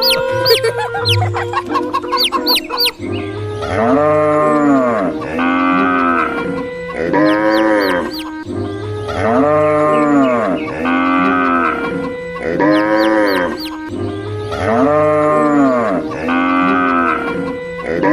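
Cow moos repeating in an even, looped pattern, each call rising and falling in pitch, over a backing of steady music tones; the first few seconds hold quick chicken clucks and chirps before the mooing starts.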